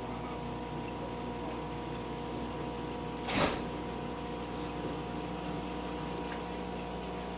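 Steady hum of aquarium equipment, such as the tank's pump, holding several fixed tones. One short burst of noise cuts through it about three and a half seconds in.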